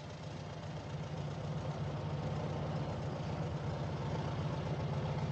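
Vehicle engine idling steadily, its low hum growing slightly louder over the few seconds.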